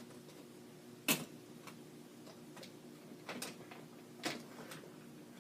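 Scattered light clicks and knocks of craft tools and supplies being handled and set down while searching for a corner punch, the sharpest about a second in, over a faint steady hum.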